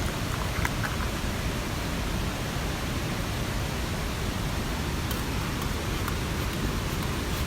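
Steady rushing of a mountain stream, with a few faint, sharp ticks scattered through it.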